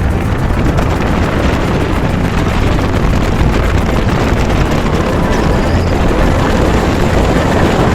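Motorboat engine running steadily and loud, heard from on board with rushing noise from the hull and wind.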